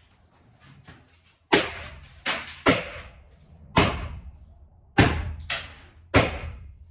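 Seven sharp knocks, the blows of someone striking a hard surface. They come irregularly over about five seconds, and each dies away quickly.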